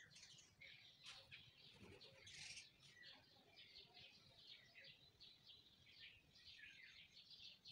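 Faint birds chirping and twittering, many short calls following one another without a break.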